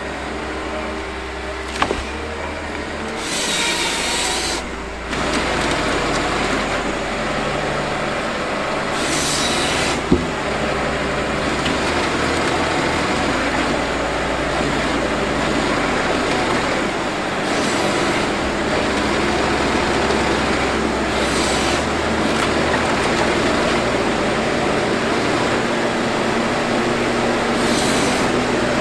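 Wood crusher running: steady engine and machinery noise, with short bursts of hissing every several seconds and a couple of sharp knocks.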